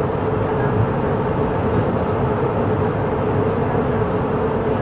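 Interior running noise of a CRH6A electric multiple unit travelling at speed: a steady, dense rumble carrying a constant humming tone.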